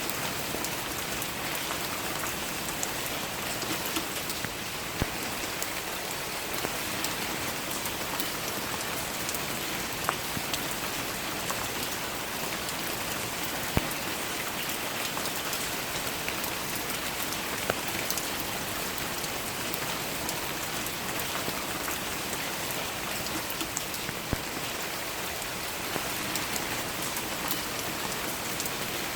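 Steady rain falling, an even hiss with scattered louder individual drops striking close by.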